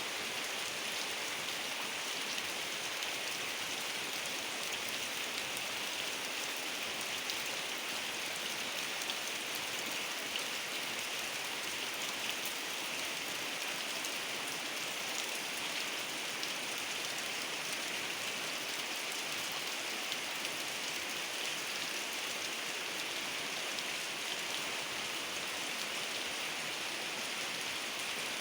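Heavy rain falling steadily, a constant hiss dotted with the fine ticks of individual drops.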